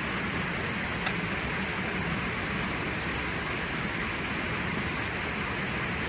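Steady road and engine noise of a moving vehicle, an even rushing sound with a low hum underneath.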